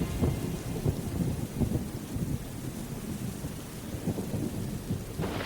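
Thunder rumbling with rain falling, an uneven crackling rumble over the hiss of the rain. About five seconds in, a louder thunderclap breaks in.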